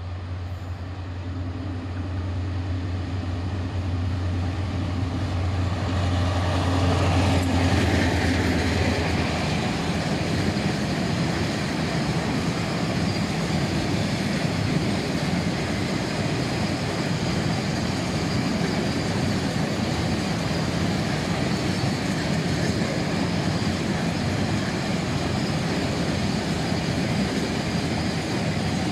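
Bangladesh Railway diesel locomotive approaching with a steady low engine hum that grows louder over the first several seconds and passes about seven seconds in. It is followed by a long string of bogie oil tank wagons rolling past with a steady rumble of wheels on the rails.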